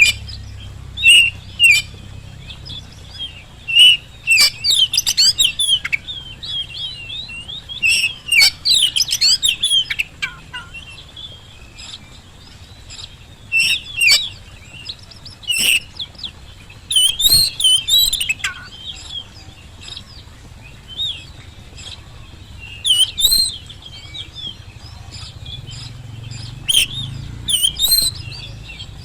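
Oriental magpie-robin (kacer) singing loudly in repeated bursts of quick, varied whistles and chirps, with short pauses between phrases, over a faint low steady hum.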